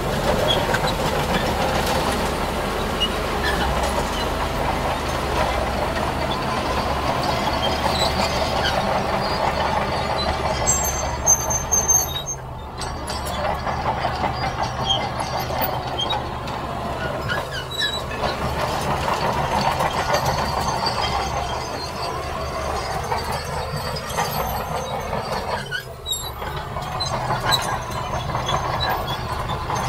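Heavy earthmoving machinery at work: diesel engines running steadily with scattered metallic clanks, and a brief high squeal about eleven seconds in.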